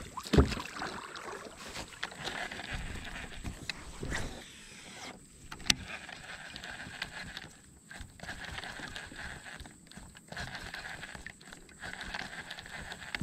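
Gear being handled in a fishing kayak: light knocks, clicks and rustling against the hull, with a couple of sharper knocks. A steady faint high hum lies under it.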